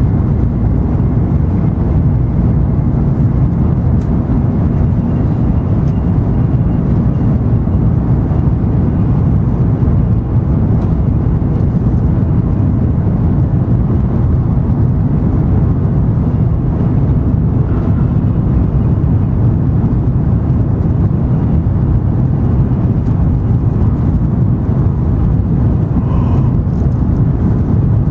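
Cabin noise of an N700 series Shinkansen running along the line: a steady, loud low rumble.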